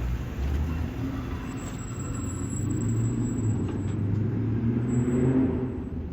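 Supercharged V8 of a modified Dodge Charger Hellcat, with aftermarket exhaust, rumbling at low revs. It swells louder for a couple of seconds from about halfway through, then eases off near the end.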